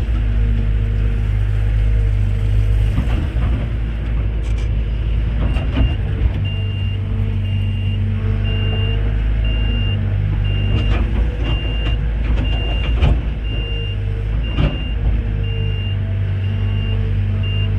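Heavy diesel machinery running steadily, with an electronic warning beeper that starts about five and a half seconds in and repeats about once a second. A few short knocks and clatters sound over it.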